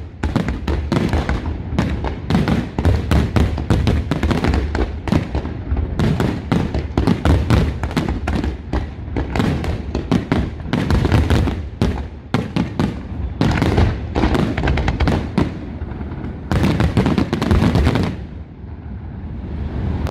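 Parente Fireworks display: a dense, rapid barrage of firework shell bursts, bang after bang with little pause, easing off about two seconds before the end.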